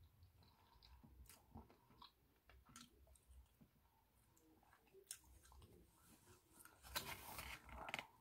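Faint mouth sounds of someone chewing seafood with the mouth closed: soft wet clicks. Near the end comes a louder rustle and scrape as the foil-lined foam takeout tray is picked up and handled.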